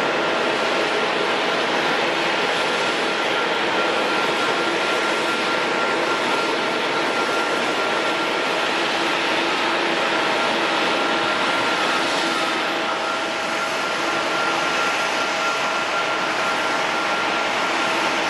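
Jet airliner engines running steadily, a constant rushing noise with a steady whine on top and no rise or fall in power.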